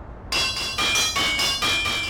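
Steel crowbars clanging down one after another: about four sharp metallic strikes, starting about a third of a second in, each one ringing on with bell-like tones.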